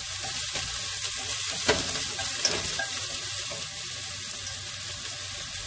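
Sliced shallots sizzling in a little hot olive oil in a stainless-steel pot as they are stirred, with two sharp clicks about a second and a half and two and a half seconds in.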